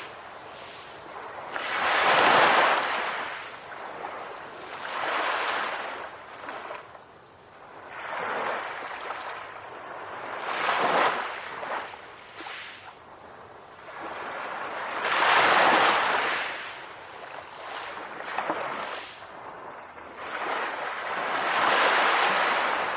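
Ocean waves washing onto a shore: a rush of surf swells and fades every three or four seconds, some surges louder than others.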